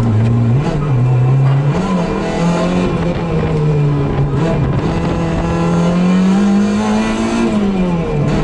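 Suzuki Swift GTi MkII's 1.3-litre twin-cam four-cylinder engine under hard acceleration, heard from inside the cabin. Its pitch climbs after a gear change about half a second in and holds high revs, then drops sharply near the end as the throttle is lifted.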